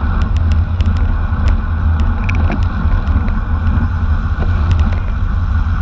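Steady heavy wind rumble on the microphone of a camera carried on a racing bicycle moving at speed, with scattered short sharp clicks.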